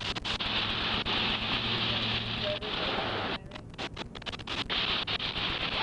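Steady rushing hiss of a large diesel fuel fire burning, mixed with wind on the body-worn microphone. A low steady hum runs underneath and stops about two and a half seconds in.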